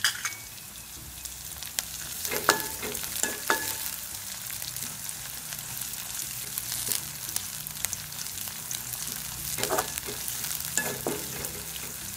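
Onions, green chillies and curry leaves sizzling steadily in hot coconut oil as they are tempered, stirred with a spatula. The spatula clinks against the metal pan several times with a short ring.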